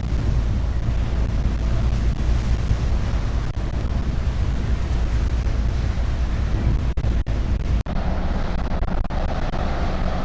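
Wind buffeting the microphone over a steady low rumble and rushing sea noise aboard a car ferry under way, with brief breaks about seven and eight seconds in.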